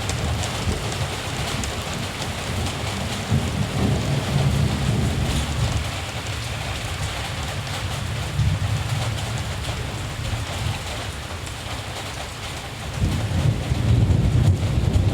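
Steady rain with distant thunder rumbling low underneath; the rumble swells about four seconds in and grows louder again near the end.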